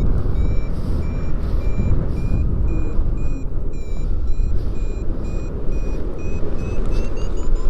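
Paragliding variometer beeping its climb tone, about two short beeps a second, stepping up in pitch near the end as the climb strengthens, over steady wind rush on the microphone.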